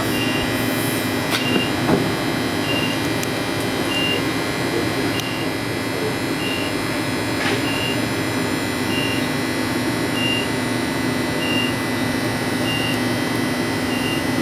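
Stopped Brisbane suburban electric train humming steadily at the platform, its air-conditioning and onboard equipment running, with a short high beep repeating about every 1.3 seconds, typical of the door signal while the doors are released. A few faint clicks sound along the way.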